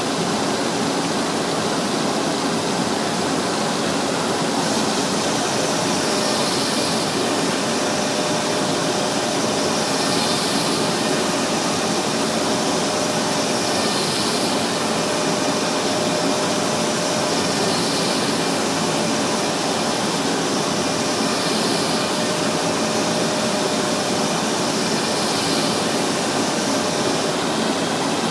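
Propeller sanding machine running, a steady loud machine noise. From about five seconds in, a higher sanding hiss swells and fades roughly every four seconds.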